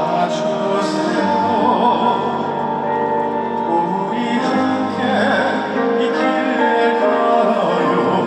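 Live performance of a slow, gentle trot ballad: band accompaniment carrying a sustained melody.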